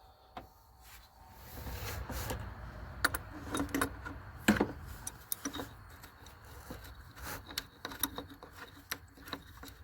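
Hand tools clinking and clicking against metal fittings, with irregular sharp knocks and handling noise, as the oil cooler line fittings at the radiator are worked loose.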